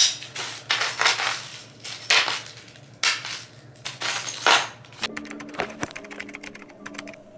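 Rattling and rustling of flat-pack desk parts and hardware being handled, in a string of short bursts. About five seconds in it gives way to background music with steady held notes and light clicks.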